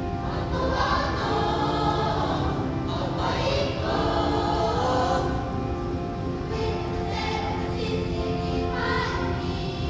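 A class choir of first-year middle school students singing an English-language song, with held notes sung in parts.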